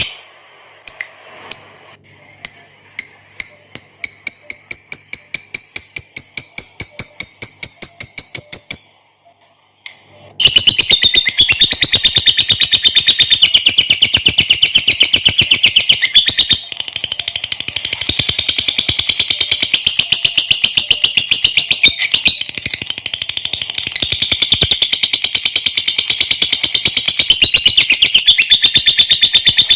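Lovebird (Agapornis) giving its long 'ngekek' chattering trill: a fast string of high-pitched notes, about six to eight a second. It stops for about a second and a half near the middle, then resumes and runs on without a break.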